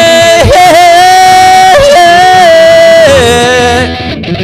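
A singer holds one long, high, wordless note over backing music; about three seconds in the note slides down and ends, leaving the quieter accompaniment.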